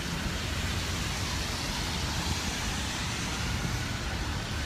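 Steady city street ambience: an even wash of traffic noise with a low rumble and no distinct events.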